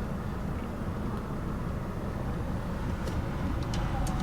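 2015 Mazda CX-5 engine idling steadily, heard from inside the cabin, with a few faint clicks near the end.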